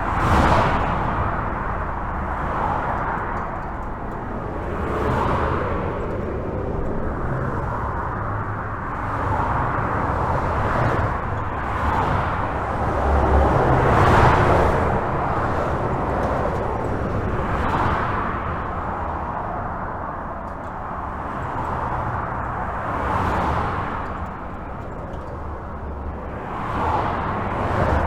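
Continuous highway traffic heard from under a bridge: a constant low rumble with the tyre hiss of individual vehicles swelling and fading as they pass every few seconds.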